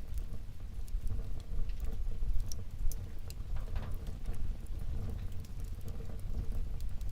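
Wood fire burning in a fireplace: a steady low rumble of flames under irregular small crackles, with a couple of sharper pops near the middle.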